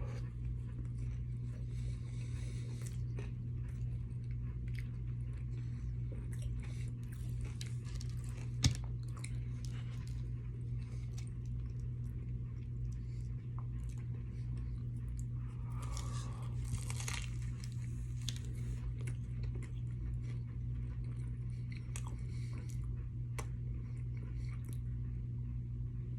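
Close-up eating sounds: biting, crunching and chewing Cuban treats, many small crackles and clicks over a steady low hum, with one sharp click about nine seconds in.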